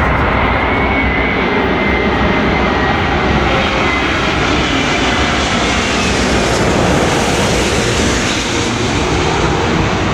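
Engines of a landing airplane passing low overhead on final approach, a loud steady rush of engine noise with a faint whine that falls slightly in pitch during the first few seconds.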